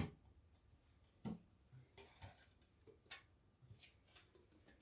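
Near silence broken by a few light clicks and taps, a sharp one right at the start and another about a second later, then fainter ones.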